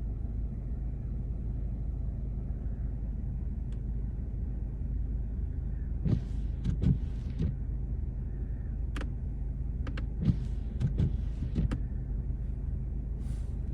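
A car driving, heard from inside: a steady low engine and road hum, with scattered short clicks and knocks about six seconds in and again from about nine to twelve seconds.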